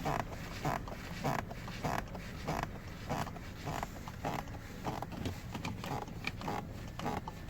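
Footsteps walking at an even pace, about one and a half steps a second, each step a short crunch.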